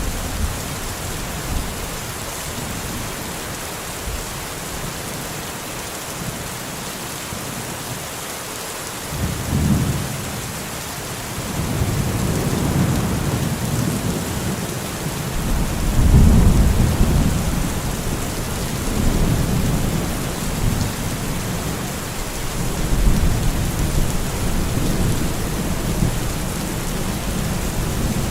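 Steady rain with rolling thunder. A low rumble starts about nine seconds in, swells to its loudest a few seconds later and keeps rumbling in waves under the rain.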